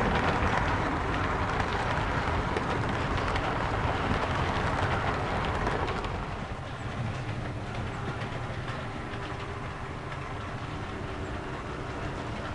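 OO gauge model diesel train running along the track, with wheel and motor noise on the rails; louder for the first half, dropping off after about six seconds as it moves away.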